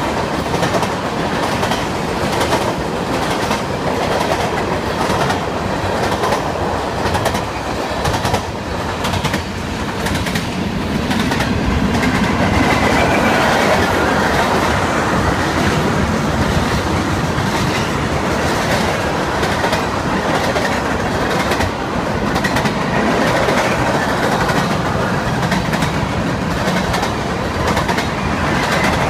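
Norfolk Southern mixed freight train's cars rolling past, steel wheels clicking over rail joints in a steady clickety-clack over a continuous rumble.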